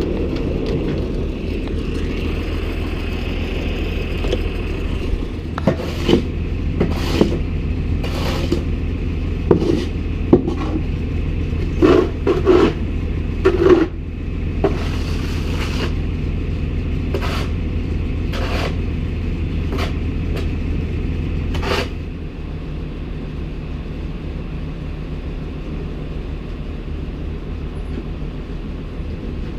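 Tractor engine running steadily, with a series of sharp metallic clanks and knocks over its middle stretch. The engine sound drops a little about three-quarters of the way through.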